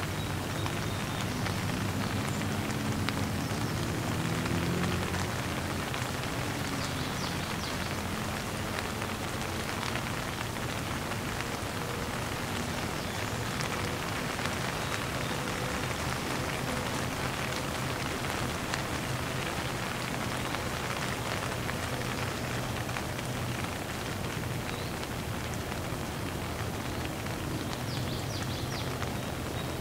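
Heavy rain falling steadily in a downpour, a dense even hiss of many drops striking leaves and ground.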